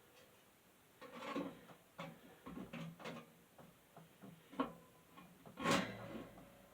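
A run of knocks, clicks and scrapes from fan parts being handled and set down during servicing, the loudest knock near the end.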